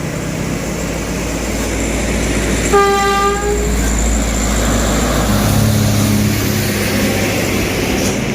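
Heavy diesel trucks labouring on an uphill grade with a steady low rumble. About three seconds in, a vehicle horn sounds once for just under a second. Past the middle, another engine's steady drone comes in.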